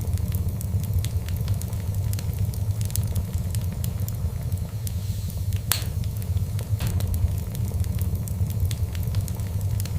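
Wood fire in a fireplace crackling, with scattered pops and two sharper cracks a little past the middle, over a steady low rumble.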